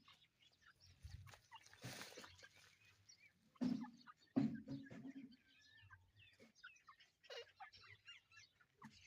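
Partridges (teetar) clucking and calling. Two louder low calls come about four seconds in, and many faint high chirps follow in the second half.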